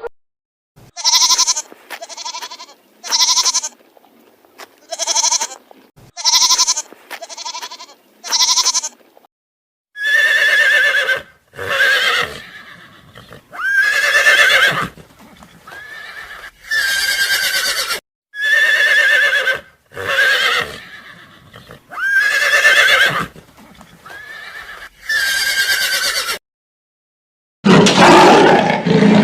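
A series of animal calls: eight short calls, about one a second, then after a pause about nine longer calls, each close to a second, spaced evenly; near the end a different, coarser animal call begins.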